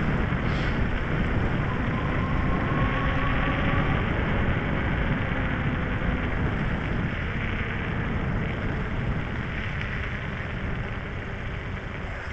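Electric bicycle riding over rough ground: steady wind rush on the microphone and tyre rumble, with a faint rising whine about two seconds in. The noise gradually gets quieter toward the end.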